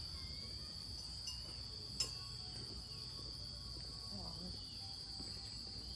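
Insects chirring in a steady, unbroken high drone, with a single sharp click about two seconds in.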